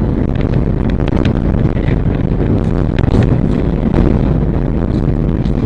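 Vehicle driving: a steady low rumble of engine and road noise, with a few faint ticks.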